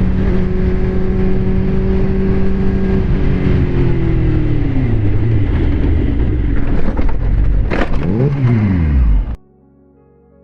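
Motorcycle engine running at steady high revs, then the revs fall away from about four seconds in. Near the end the pitch dips and climbs again with a couple of sharp knocks, and the sound cuts off suddenly.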